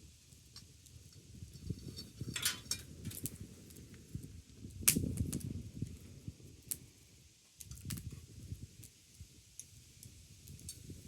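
Campfire crackling, with scattered sharp pops over a low rumble; the loudest pop comes about five seconds in.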